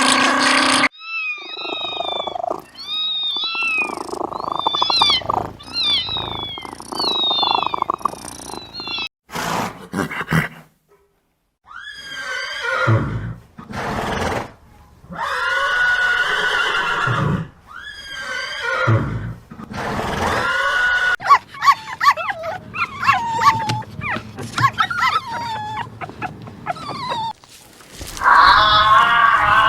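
Calls of several different animals one after another, each lasting a few seconds and breaking off abruptly into the next: short repeated chirps at first, then louder drawn-out calls that bend in pitch.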